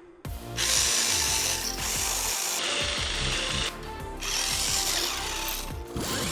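Small electric RC car motor whirring and tyres churning through sand, cut in and out abruptly several times, over background music.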